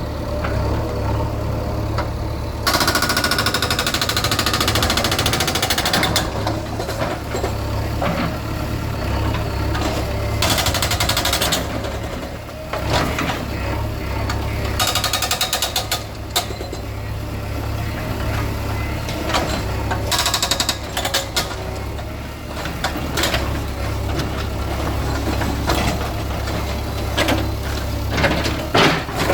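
Diesel engine of a demolition bulldozer running steadily, with several bouts of loud rattling and crunching as it works, and scattered knocks.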